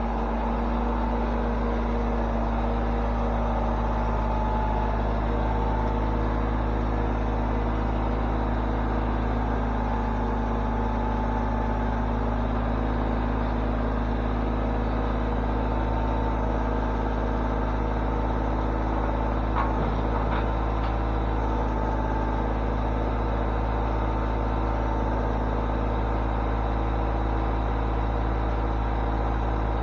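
Engine running steadily at a constant speed, with a couple of faint clicks about twenty seconds in.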